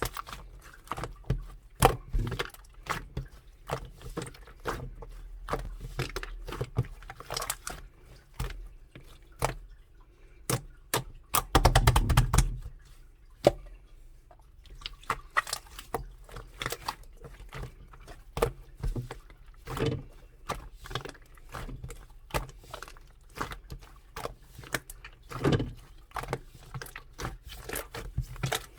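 Slime being poked, pressed and squeezed by hand, giving irregular sticky clicks and pops, with a dense, louder run of crackling pops about twelve seconds in.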